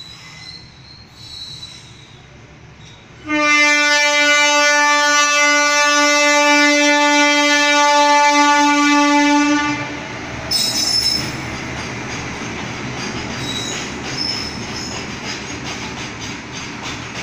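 Train horn sounding one long, steady blast of about six seconds, about three seconds in. Then the train rolls past with a brief high wheel squeal and continuous running noise on the rails.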